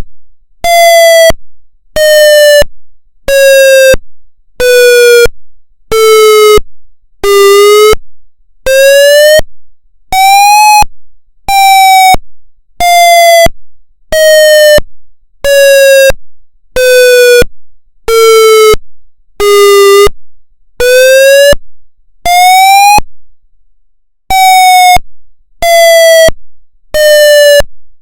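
Federal MCP siren sounding its pulse wail signal: a wailing siren tone chopped into loud on-off pulses about once a second. Each pulse is a little lower than the one before, then over two pulses the pitch climbs quickly back up, and the cycle repeats roughly every ten seconds.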